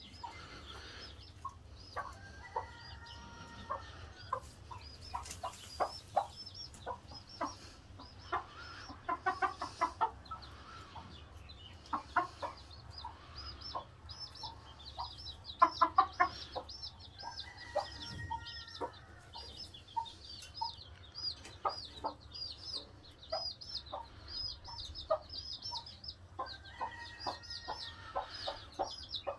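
Chickens clucking in short, irregular calls, with busier runs around a third and half of the way through, over a constant stream of high, quickly repeated chirps. A steady low hum lies underneath.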